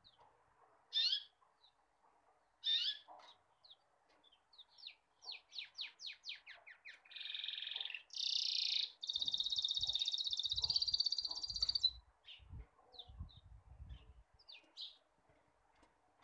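A small bird singing: scattered sharp chirps, a quick run of falling notes at about four a second, then a long buzzing trill from about nine seconds in that stops suddenly near twelve seconds. A few low dull knocks sound underneath during and after the trill.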